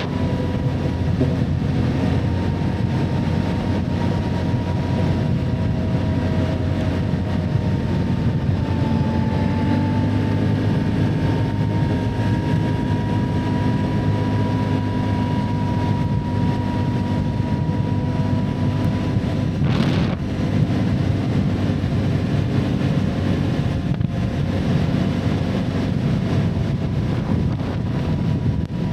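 Can-Am ATV engine running steadily while riding, with a faint steady whine and wind on the microphone. A single sharp knock comes about 20 seconds in.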